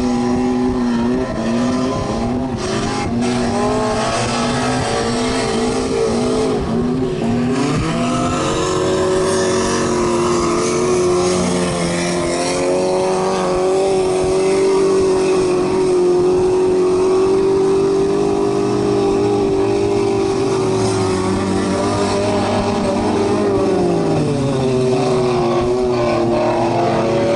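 Autocross race cars' engines running hard, the pitch dipping and recovering over and over for the first several seconds. About eight seconds in it climbs and holds high for a long stretch, then falls away near the end.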